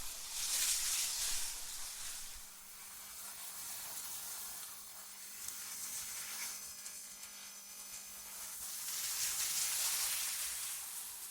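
Synthetic wind blowing in hissing gusts. One gust comes about a second in and another builds near the end, with a lull between them. A faint steady low hum runs underneath.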